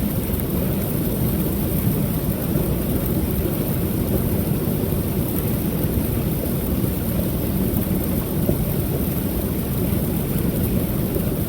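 Small waterfall on a creek rushing steadily, a deep, even roar of falling water.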